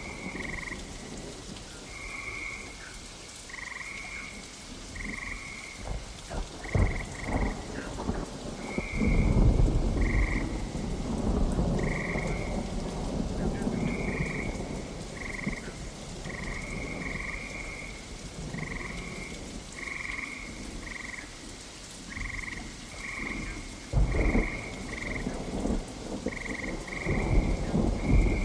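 Frogs calling in short, repeated croaks about once a second over steady rain, with thunder rumbling several times: a long roll about a third of the way in and sharper claps near the end.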